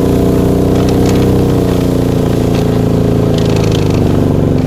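Motorized snow tow's engine running hard at high revs, pushing through deep, loose snow. Its pitch sags slightly near the end as the machine bogs down for lack of grip.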